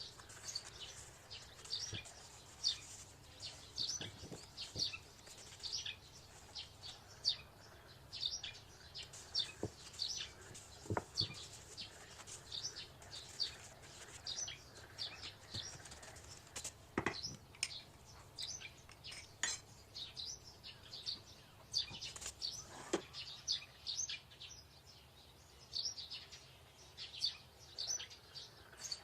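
A bird chirping over and over in short, high notes, with a few sharp clinks of kitchenware now and then.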